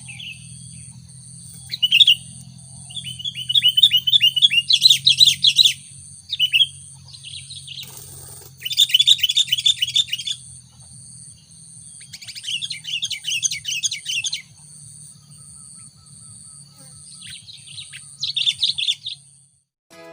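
Sooty-headed bulbul (kutilang) chattering busily in about six bursts of rapid notes, each a second or two long, with short pauses between. A steady, evenly pulsing high-pitched tone and a faint low hum run underneath.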